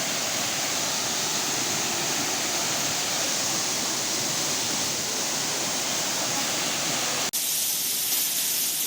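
Waterfall rushing: a steady, even noise of falling water. About seven seconds in it cuts abruptly to a thinner, brighter hiss of water.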